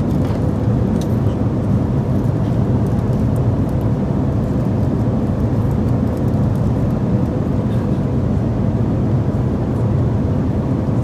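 Steady, even cabin noise of an airliner in flight: engine and airflow noise heard from inside the passenger cabin, deep and unchanging.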